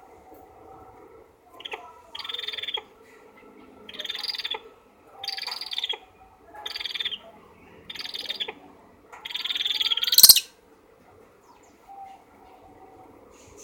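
Pet eagle calling: a series of about seven harsh, high calls, each lasting half a second to a second, the last one longest and ending in a sharp click about ten seconds in.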